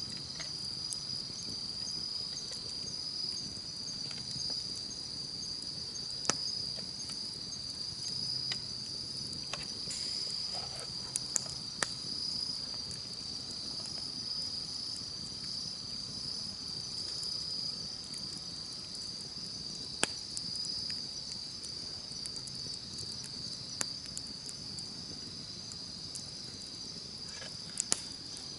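Campfire burning with a soft low rustle and a few sharp pops and crackles, over steady high-pitched chirring of crickets or other night insects.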